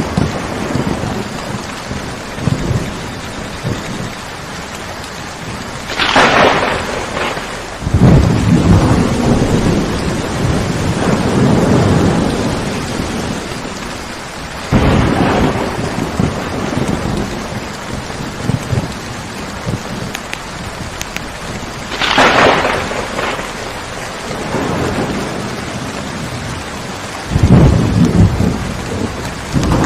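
Steady rain with thunder several times: sharp crackling claps that give way to long low rolling rumbles, the loudest rumble starting near the end.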